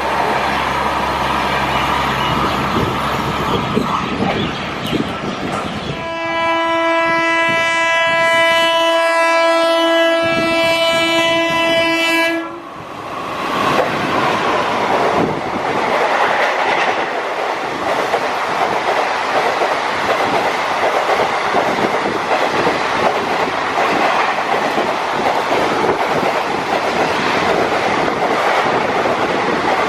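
Indian Railways train running past, with one long locomotive horn blast of about six seconds starting about six seconds in and cutting off sharply. After it comes the steady rush of the coaches rolling by on the track.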